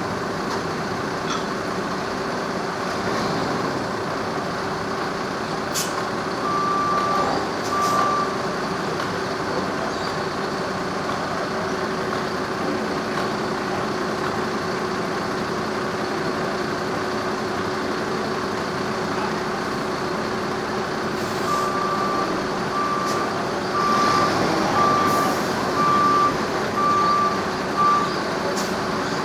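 A vehicle's reversing alarm beeping over a steadily running engine: two beeps about seven seconds in, then seven more at about one a second near the end.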